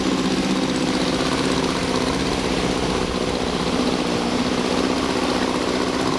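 Small boat's outboard motor running at a steady speed, an even engine hum over a broad hiss.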